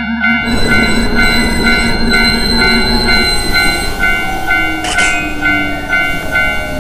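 Railroad crossing bell dinging in a steady repeating rhythm as a shinkansen bullet train rushes past with a dense rumbling rush of noise from about half a second in, a short sharp burst sounding near five seconds in.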